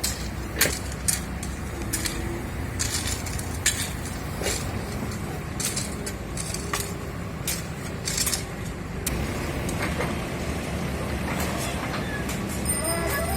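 Busy city road traffic rumbling steadily, broken by a series of short, sharp hisses and clicks.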